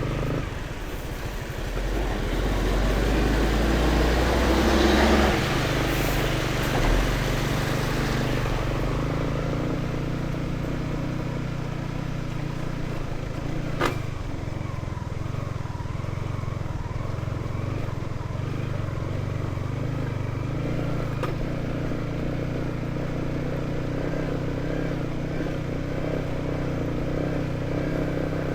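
Motorcycle engine running steadily while riding, with a louder rushing noise over it in the first several seconds. A single sharp click comes about halfway through.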